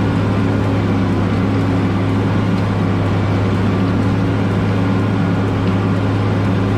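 Large diesel tractor engine running loudly at a steady speed, with a constant low drone.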